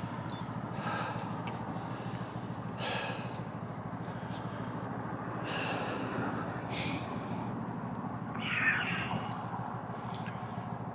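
A cyclist breathing hard while pedalling, about six short gusty breaths a few seconds apart, over steady road and wind noise from the ride.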